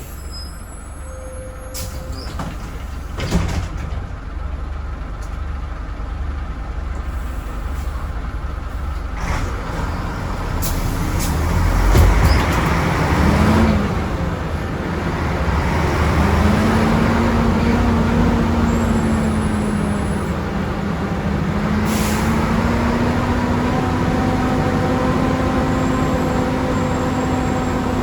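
Volvo B10M bus's underfloor six-cylinder diesel engine running and building up as the bus pulls away, then a steady whine that slowly rises in pitch as it gathers speed. There are two sharp air hisses from the brakes, one early on and one about two-thirds through.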